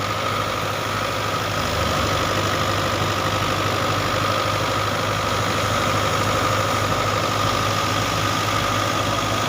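Engine-driven harvest machinery running steadily, with a constant high whine over its low, even beat.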